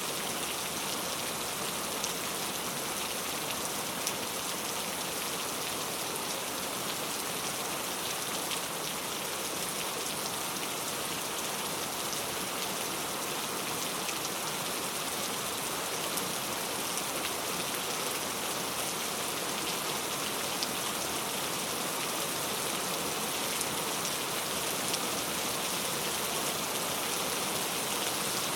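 Steady rain falling on a surface, a continuous hiss with many small scattered drop ticks.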